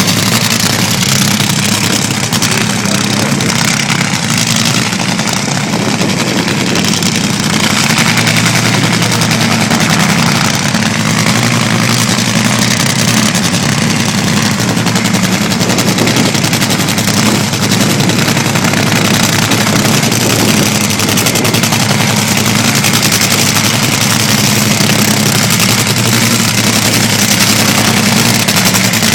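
Top Fuel dragster's supercharged nitromethane V8 running steadily at low revs, loud and rough, getting a little louder about eight seconds in.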